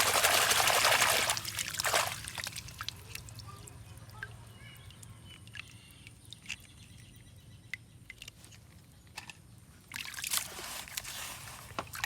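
Water pouring and trickling in two spells, a loud one at the start and another near the end, with light clicks and knocks in between.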